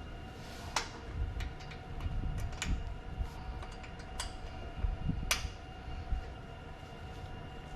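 Scattered sharp clicks and taps of hand assembly work, a wheel and axle lock being fitted to a pressure washer's axle, over a steady low rumble.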